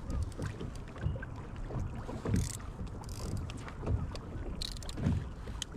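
Wind buffeting the microphone and water knocking against a kayak hull in a running tide: irregular low thumps, small clicks and a few brief splashy hisses.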